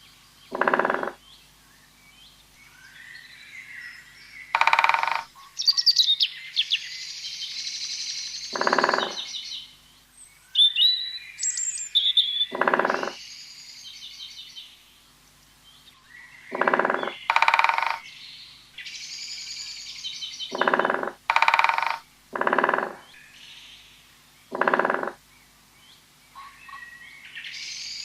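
Bird-like chirping and trilling, broken every few seconds by a short, low, nasal honk-like call, over a faint steady hum.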